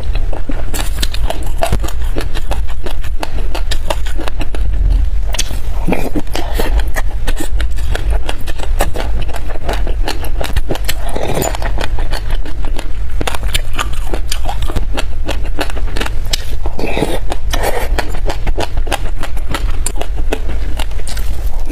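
Close-miked chewing of a mouthful of black sesame seeds: a dense crackle of tiny crunches, with the spoon scooping through the seeds in the dish now and then, over a steady low hum.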